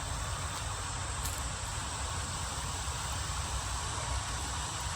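Steady buzzing of a strong honeybee colony swarming around an opened hive.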